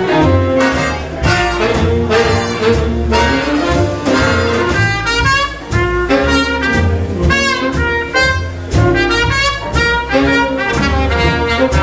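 Big band swing played live: brass and saxophone sections in full ensemble over a walking bass and drums, with sharp rhythmic horn accents.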